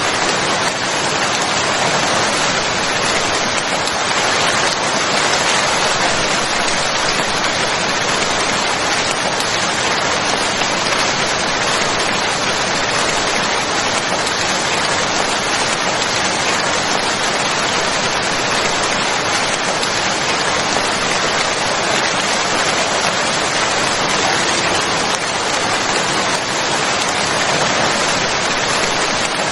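Steady heavy rain, an even dense hiss of falling rain and drops on surfaces, unchanging throughout.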